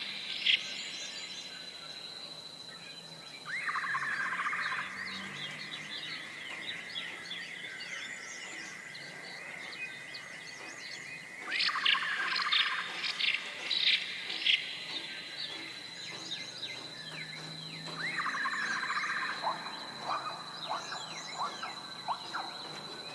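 Songbirds singing and chirping: one bird repeats the same short song phrase three times, several seconds apart, with quick high chirps from other birds in between. A thin, steady high tone runs underneath.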